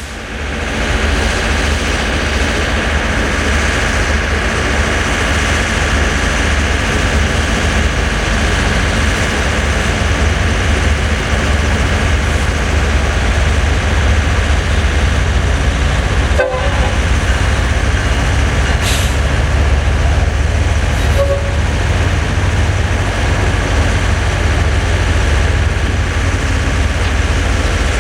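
A train passing close by: a loud, steady rumble that does not let up.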